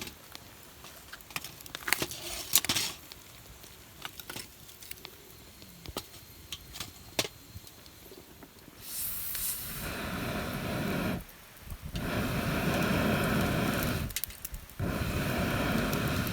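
Pieces of charcoal clinking as they are moved into a shichirin charcoal grill. From about ten seconds in, air is blown hard onto the coals in three long puffs with short pauses between them, to get them burning.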